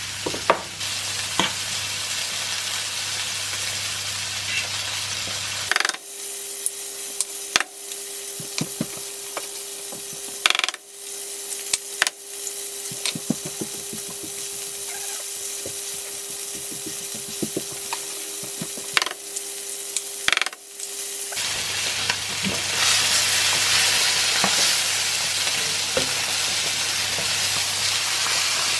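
Flounder and eggs frying in oil in frying pans, sizzling loudly, with occasional clicks and knocks from utensils against the pans. For a stretch in the middle the sizzle drops back and a steady hum sounds.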